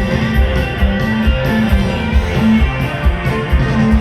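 A band playing an instrumental passage, guitars over bass and a steady beat.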